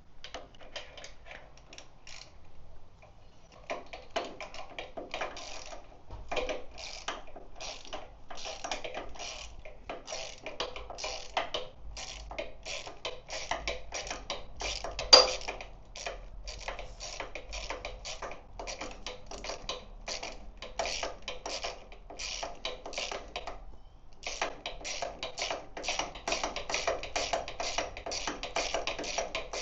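Ratchet wrench clicking in long runs of about three clicks a second, driving a long socket to unscrew the spark plugs from a Victory V92C V-twin. There is a single sharp knock about halfway through.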